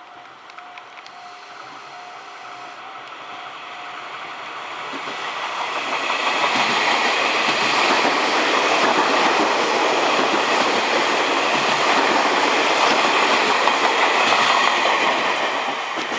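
Tobu 60000 series electric train passing through the station at express speed without stopping. The wheel-and-rail rumble builds over a few seconds, stays loud for about eight seconds, then starts to fade near the end.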